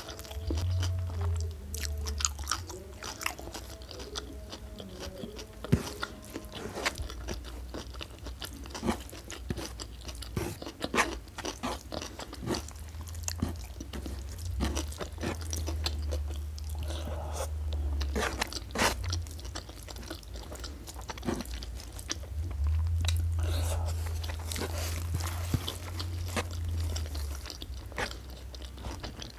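Close-miked mouth chewing and crunching of food, with many sharp wet clicks and crackles, as a person eats by hand.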